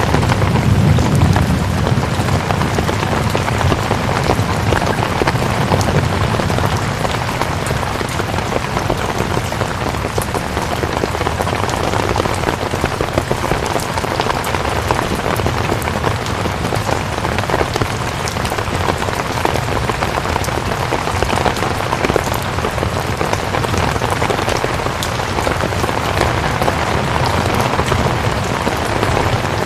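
Steady rain, a dense, even hiss full of individual drop ticks, with a heavier low rumble in the first couple of seconds.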